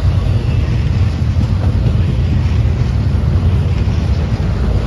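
A train passing close by: a loud, steady low rumble.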